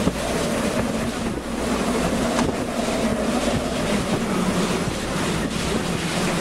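Strong wind rushing and buffeting the microphone inside a moving car with a window open, with the car's engine hum and road noise underneath. The wind is from the nearby tornado.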